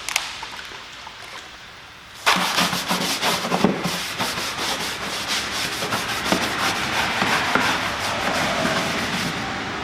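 Stiff bristle brush scrubbing a plastic inner fender liner wet with all-purpose cleaner, in rapid scratchy strokes. It is quieter for the first couple of seconds, then the scrubbing picks up loudly a little over two seconds in.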